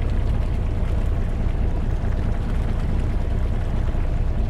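Boat engine running: a steady low rumble with no change in level.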